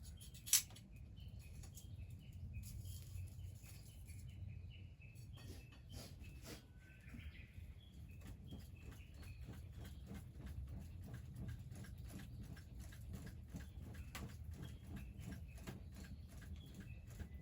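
Small animal chirping: short high notes repeated several times a second, over a low rumble. There are scattered clicks throughout and one sharp knock about half a second in, the loudest sound.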